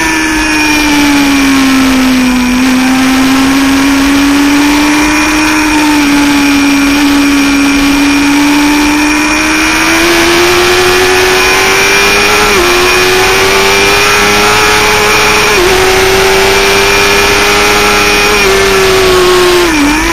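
Motorcycle engine running hard through a track lap. Its pitch sinks slowly in the first few seconds, then climbs again, with three brief dips in the second half as the throttle is eased and reopened.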